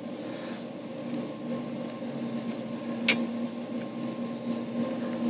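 A steady machine hum with a low, even tone over a light hiss, and a single sharp click about three seconds in.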